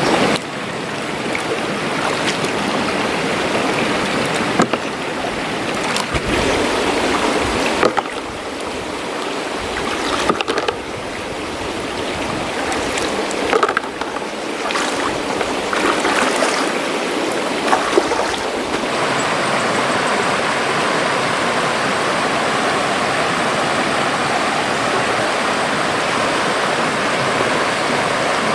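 River water running steadily, with a few short knocks and splashes during the first two-thirds.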